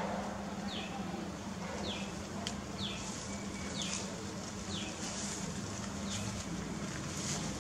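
A small bird repeating a short, high chirp that falls in pitch, about once a second, over a faint steady low hum.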